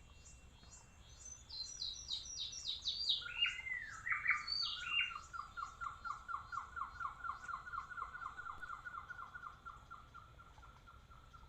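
A bird singing: a run of quick notes that falls step by step in pitch, then a long, even string of repeated notes at one lower pitch, about five a second, lasting some six seconds.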